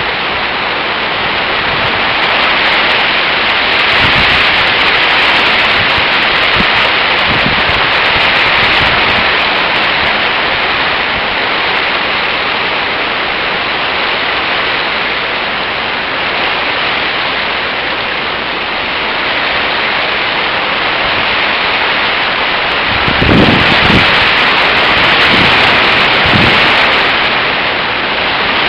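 Typhoon wind and heavy rain: a loud, steady rushing hiss that swells in gusts a few seconds in and again near the end, with wind buffeting the microphone in low thumps during the gusts.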